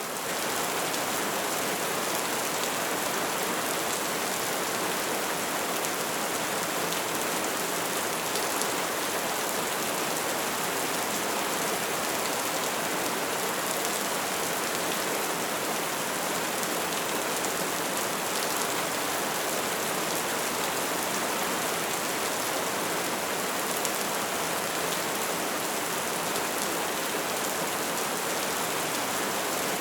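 Bonfire burning with a dense, steady crackle and hiss of many small pops, fading in over the first half second.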